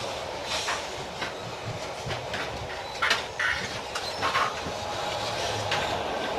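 Moving NSB regional passenger train heard from inside the carriage: a steady rumble of wheels on the track, with irregular clicks and rattles and a few short squeaks around the middle.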